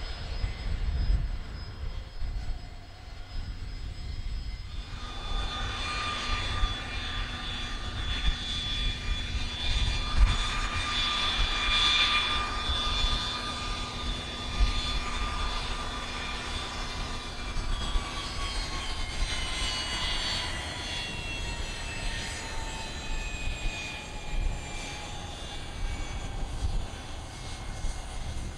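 Fixed-wing aircraft passing the airfield. Its engine whine comes in about five seconds in, is loudest a few seconds later, then slides steadily down in pitch as the aircraft moves away.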